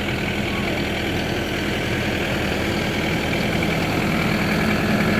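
Farm tractor's diesel engine running steadily while pushing snow, growing slowly louder.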